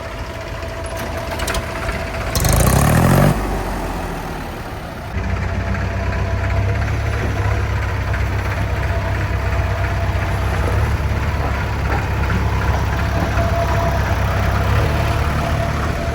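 A diesel engine being started after its stuck self-starter was freed: a loud short burst with rising pitch about two and a half seconds in, then from about five seconds in the engine idles steadily.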